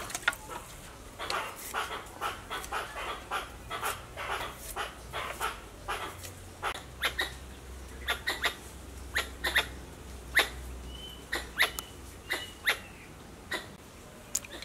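Birds calling in trees: an irregular run of short, sharp chips, with a few brief whistled notes about two-thirds of the way through.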